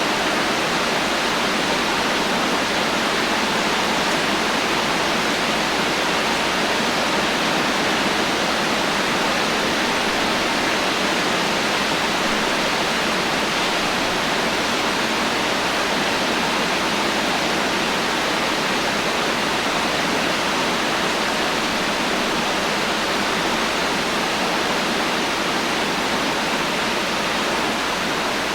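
Heavy rain falling as a steady, dense hiss with no thunder, even throughout.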